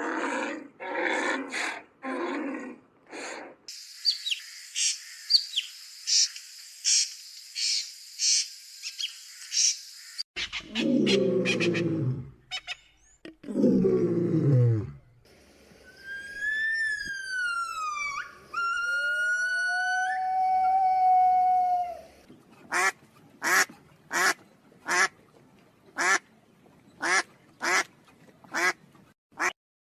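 A run of different animal calls, cut one after another. It opens with a few short repeated calls, then a fast high-pitched chatter lasting about six seconds. Next come two long deep calls falling in pitch, then whistled calls that rise and fall, and finally a steady string of short sharp calls, about two a second.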